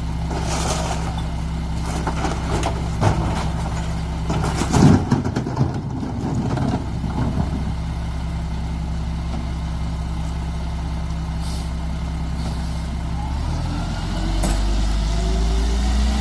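Mack MR garbage truck's diesel engine idling steadily, with a short burst of clanks and noise about four to five seconds in. Near the end the engine revs up, its pitch rising.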